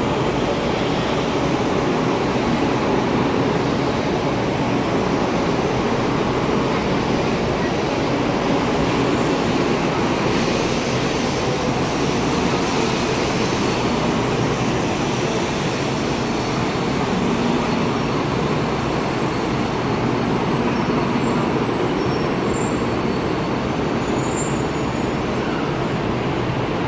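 Taiwan High Speed Rail 700T high-speed train running alongside the platform as it slows to stop, a steady, unbroken noise of wheels on rails and the passing carriages.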